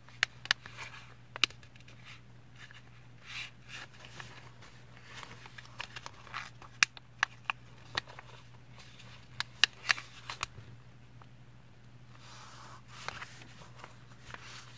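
A sheet of printer paper being handled and folded: scattered sharp snaps and taps with short crinkly rustles, over a steady low hum.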